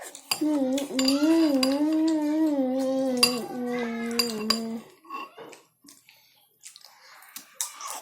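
Spoons clinking against bowls during a meal. Over the clinks, a child's voice holds one long, wavering note for about four seconds, settling a little lower in pitch before it stops.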